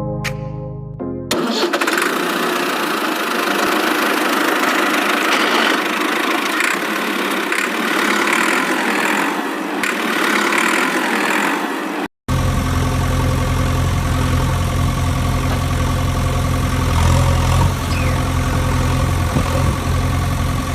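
Music ends in the first second and a half, then a steady motor runs with a rough, hissy sound. A sudden cut about twelve seconds in brings a deeper, steady motor hum of fixed pitch.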